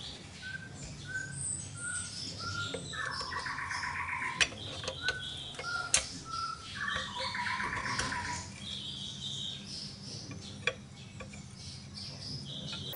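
Songbirds singing: one repeats short whistled notes and twice breaks into a fast trill, while others chirp higher. A few sharp clicks cut in, the loudest about four and six seconds in.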